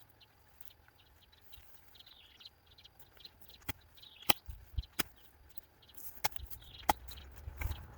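A garden digging tool working the soil: several sharp knocks and a few dull thuds in the second half, with birds chirping.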